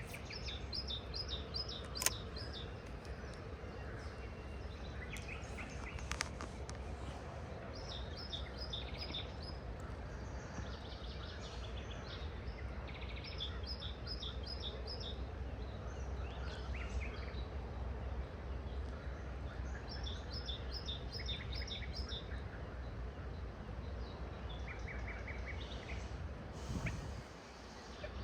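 Songbirds singing, repeating short high trilled phrases every few seconds, over a steady low background rumble. A single sharp click about two seconds in.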